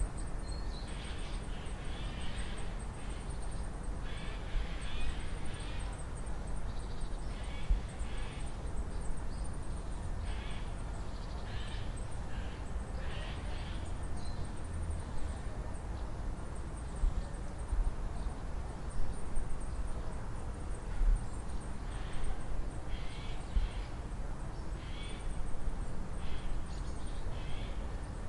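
Outdoor ambience of birds calling in short, scattered phrases over a steady low background rumble.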